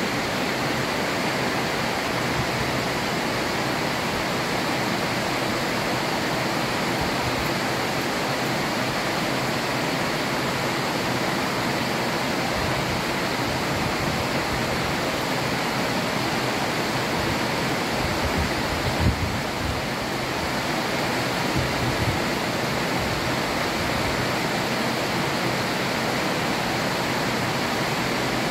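Heavy rain falling steadily, an even hiss with no let-up, with a brief low thump about two-thirds of the way in.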